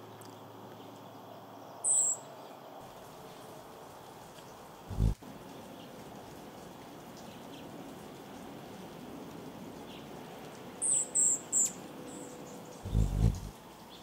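Short, high bird chirps: one about two seconds in and three quick ones near the end, over a steady hiss. Two brief low thumps, one mid-way and one near the end, are as loud as the chirps.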